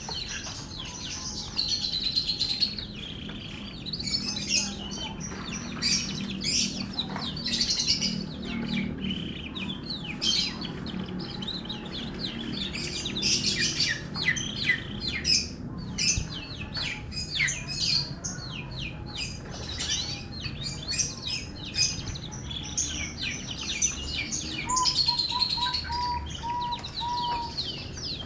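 F1 canary singing a long, continuous song of fast trills and rapid repeated notes, with a short run of about six lower, evenly spaced notes near the end.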